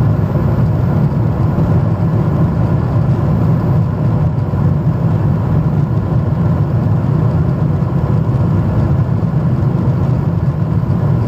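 Jet airliner cabin noise in flight: a steady drone of engines and airflow, heaviest in the low range, with a faint steady whine above it.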